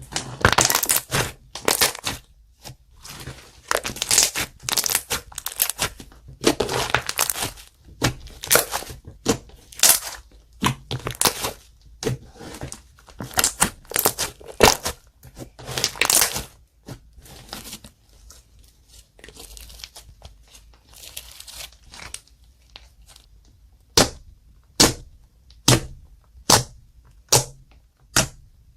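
Clear slime being squished and kneaded by hand, with dense wet crackling and popping. The slime falls quieter for a few seconds after the middle, then gives a run of sharp, evenly spaced pops, about one every two-thirds of a second, near the end.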